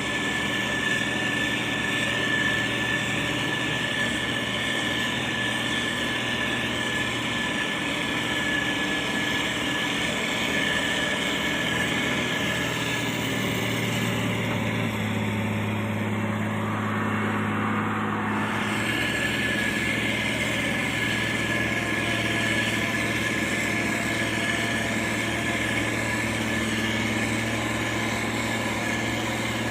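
Diesel engine of heavy road-construction machinery running steadily, with a steady high whine over the engine hum; about halfway through the engine note deepens and grows fuller for a few seconds before settling back.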